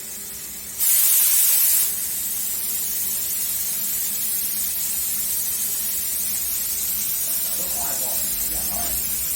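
A spray hisses, coming on suddenly and loud about a second in; after about a second it drops to a quieter, steady hiss that carries on.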